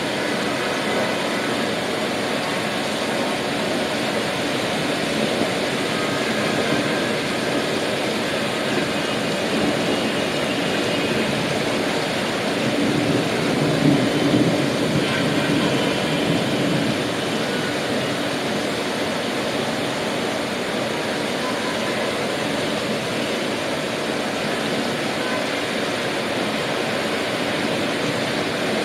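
Steady rain hiss mixed with city traffic noise, swelling briefly about halfway through as something louder goes by.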